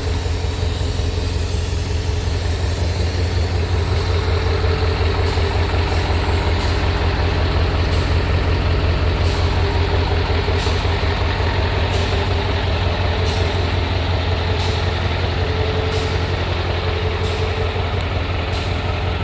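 Scania truck's diesel engine idling with a steady low rumble. From about a third of the way in, a faint short tick comes roughly every second and a quarter.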